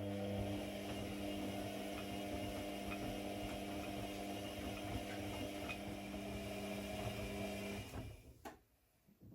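An electric motor runs steadily with a humming tone and a noisy whir, then stops about eight seconds in, followed by a couple of light clicks.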